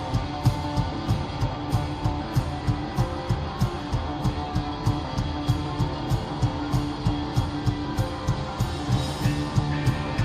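Live rock band playing: strummed guitars over a steady drum beat.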